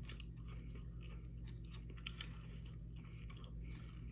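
Close-miked chewing of a mouthful of McDonald's fast food, soft irregular wet mouth clicks, over a steady low hum.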